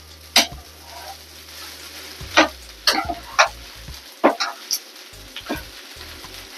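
Jerk pork fried rice sizzling in a hot pan while it is stirred, a utensil scraping against the pan several times at irregular intervals over a steady frying hiss.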